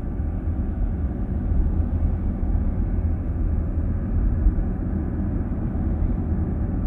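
Steady low rumble of a car driving, heard from inside the cabin: road and tyre noise with the drivetrain underneath.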